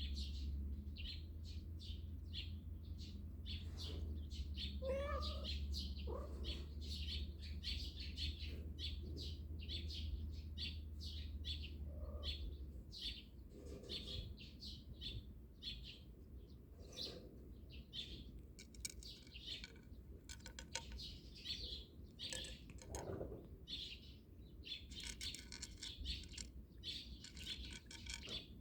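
Small birds chirping, a dense run of short, high calls repeated throughout. A low steady rumble underneath stops a little under halfway through.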